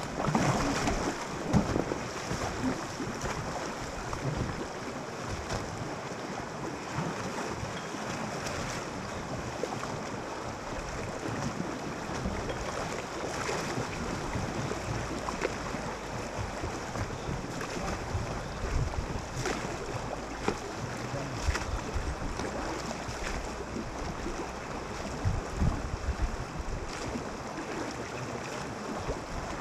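River water rushing and splashing around a raft moving downriver, with wind buffeting the microphone and a few sharper splashes.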